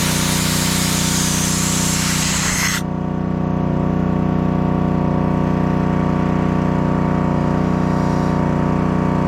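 A steady electric motor hum runs throughout. A loud rushing hiss of air sits over it for the first three seconds or so, then stops abruptly while the motor keeps running.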